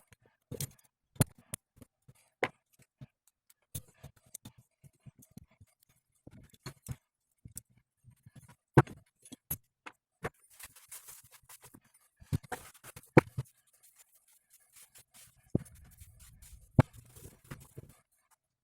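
Hand tools and metal parts being handled during a driveshaft universal-joint repair: scattered light clicks and knocks, with a few sharper knocks, and a short stretch of rustling around the middle.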